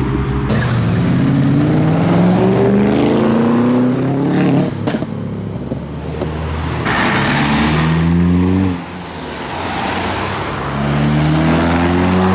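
A car engine revving hard in three long rising pulls, its pitch climbing steadily in each and dropping away between them.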